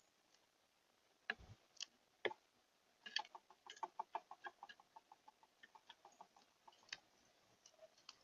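A bird making a few sharp clicks, then a rapid run of short ticks at about five a second that fades out after about four seconds.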